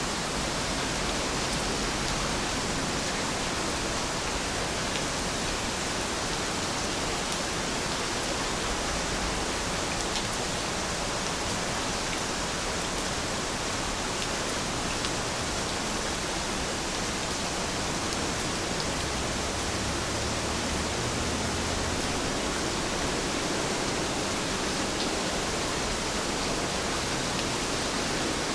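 Heavy rain falling steadily: an even hiss with faint, scattered drop ticks.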